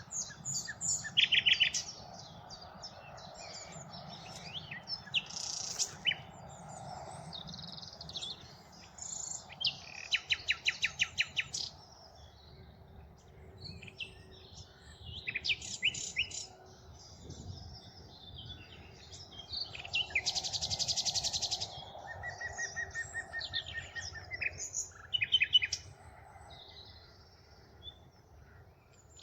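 Common nightingale singing: a series of varied phrases, each a run of rapid repeated notes, whistles or trills, separated by short pauses.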